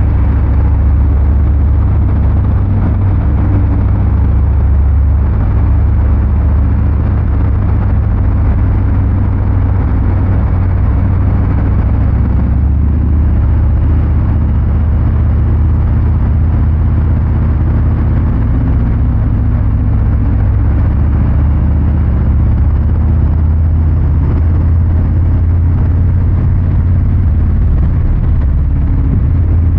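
Harley-Davidson Fat Boy 114's Milwaukee-Eight 114 V-twin exhaust running steadily while riding, a deep low rumble that stays at a fairly even pitch.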